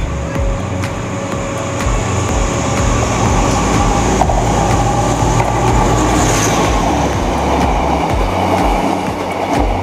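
Two passenger trains passing on parallel tracks. The carriage's own rumble and wheel clatter over the rail joints is joined, and grows louder from about two to three seconds in, by the noise of an oncoming diesel-hauled passenger train drawing alongside and rushing past.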